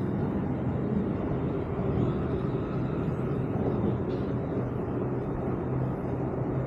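Steady wind and rolling rumble on a chest-mounted action camera while riding a mountain bike, with a faint steady low hum underneath.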